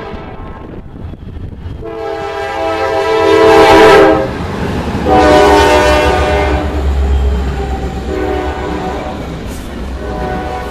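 Diesel locomotive's air horn sounding a long blast about two seconds in and a second one about five seconds in, then fainter blasts near the end. The low rumble of the passing train builds under the horn from the second blast on.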